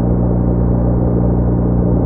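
BMW R1200R flat-twin motorcycle engine running at a steady speed, a low even drone that holds one pitch.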